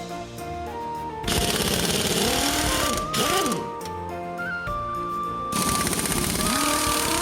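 Impact wrench hammering in two bursts of rapid rattling, each under two seconds long, over background music.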